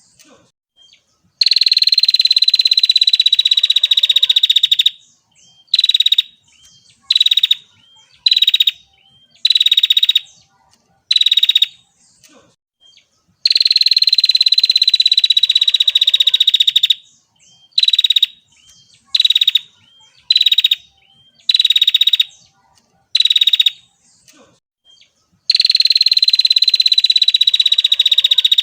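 Female bar-winged prinia (prenjak) calling. Long, rapid trills of about three and a half seconds, slightly falling in pitch, alternate with strings of short trilled bursts about one a second, and the pattern repeats every twelve seconds or so.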